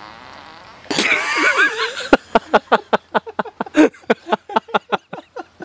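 A sudden high, wavering squeal about a second in, then rapid rhythmic laughter, about five short pulses a second, running on to the end.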